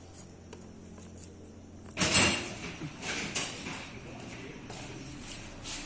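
A steady low hum that cuts off about two seconds in, as a loud scraping clatter starts, followed by a few irregular knocks and scrapes.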